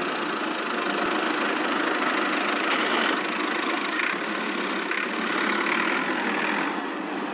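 Small motor of a miniature DIY tractor model running steadily.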